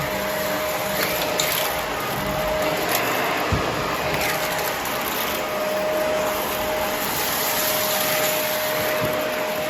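Vacuum cleaner running steadily with a thin steady whine, a few light clicks about a second to three seconds in and a low thud about halfway through.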